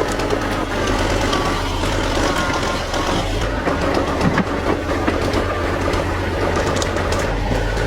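An old machine's engine running steadily under way, with a constant low drone and a clatter of metallic clicks and rattles from the machine as it drives.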